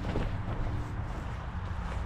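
Motorcycle engine running while riding, a steady low drone with wind noise on the microphone.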